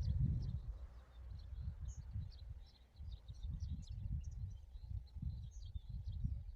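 Many small birds chirping in quick, short high notes, over an uneven low rumble.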